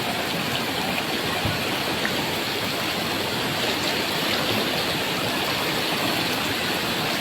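Floodwater rushing steadily in a strong current.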